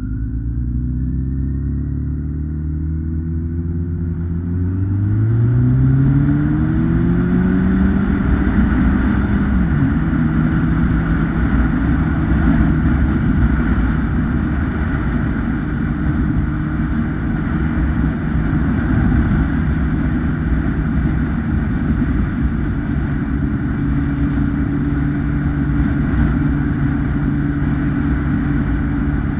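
2008 Kawasaki ZX-10R Ninja's 998cc inline-four engine pulling hard, its pitch rising over the first several seconds. The engine then holds a steady note at speed under a loud rush of wind on the microphone.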